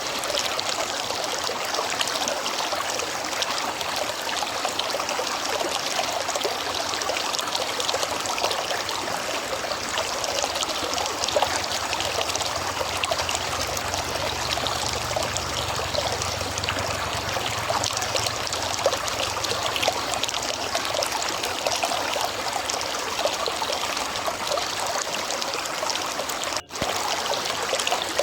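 River water flowing steadily, with a momentary drop-out near the end.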